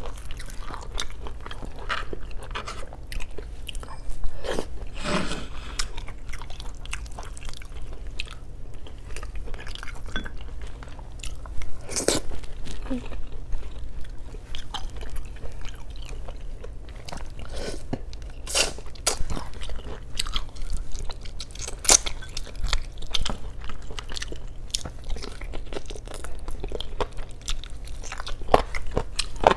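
Close-miked eating of braised chicken and pork adobo: steady wet chewing and biting with a few sharper, louder clicks.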